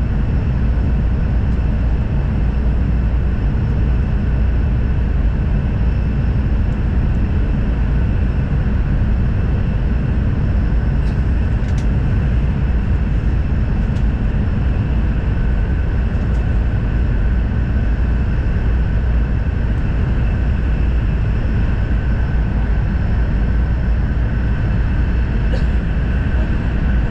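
Steady running noise of an N700 series Shinkansen heard from inside the passenger cabin: a deep, even rumble with a faint steady whine over it and a few light ticks.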